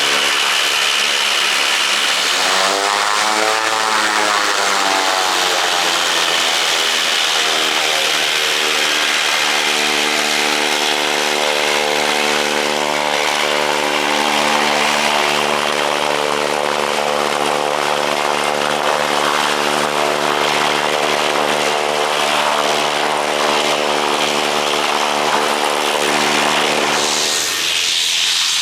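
Propeller airplane engine running close by at a steady speed, its pitch briefly rising and falling a few seconds in. Near the end the engine tone drops away into a hiss.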